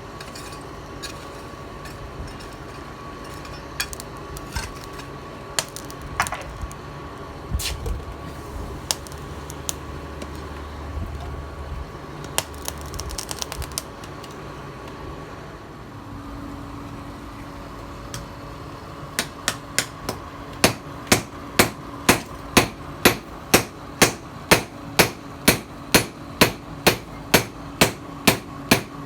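Hammer striking the steel of a knife being forged from a tiller blade: scattered knocks and clinks at first, then steady, loud ringing blows about two a second from about two-thirds of the way in.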